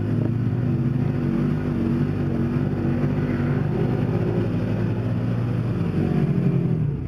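Vehicle engine running steadily, its speed wavering a little and rising slightly near the end.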